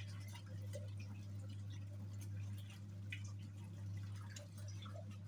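Hisense twin-tub washing machine's wash tub running: a steady motor hum, with water sloshing and scattered drips and small splashes in the tub.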